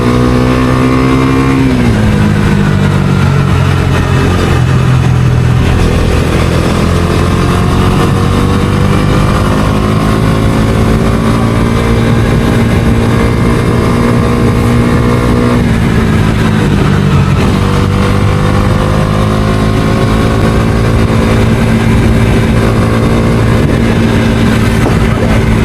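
Bajaj Dominar 250's single-cylinder engine running under way as the motorcycle is ridden. The engine pitch drops a couple of seconds in and again about two-thirds through, and climbs slowly in between as the bike pulls.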